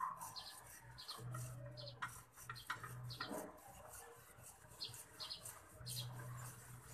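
Faint birdsong of short, high chirps repeated in quick pairs and groups, with a low hum that comes and goes.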